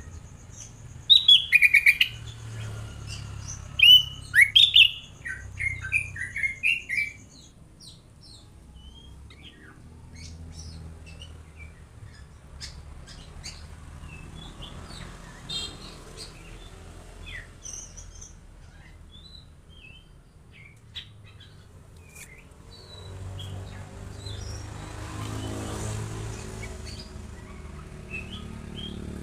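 Small songbird chirping: loud, quick bursts of short chirps for the first several seconds, then sparser, fainter chirps. Near the end a soft rushing noise swells and fades.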